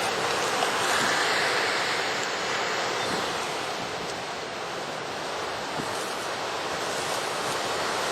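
Ocean surf breaking and washing up the beach: a steady rush that swells about a second in, eases off through the middle and builds again near the end.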